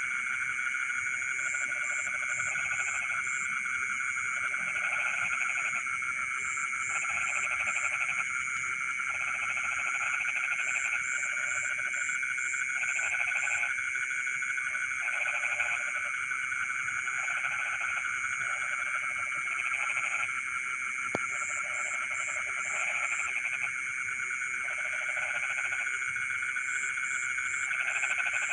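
Night chorus of frogs in a rice field: a steady, dense ringing chorus, with bouts of lower pulsed croaking repeating every second or two and high chirping trills above.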